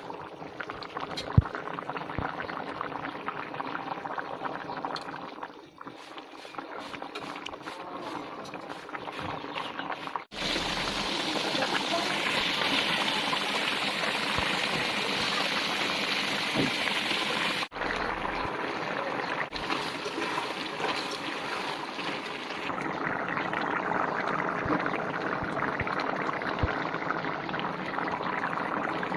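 Liquid cooking sounds from the chicken and potato curry pot: a steady bubbling, sizzling hiss. The sound changes abruptly about ten seconds in and again near eighteen seconds, getting louder and brighter between those points.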